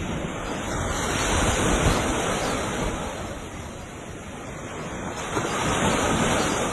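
Ocean waves breaking and washing on a beach, the surf swelling twice, with wind buffeting the microphone.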